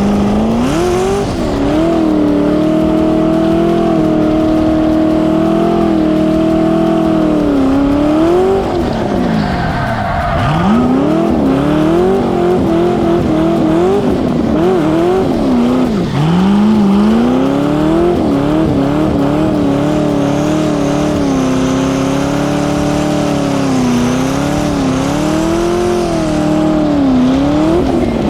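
LS-swapped BMW E36's 5.3-litre V8 being driven hard on an autocross course. Engine speed is held high for long stretches, drops sharply a few times as the throttle is lifted, then quickly climbs again.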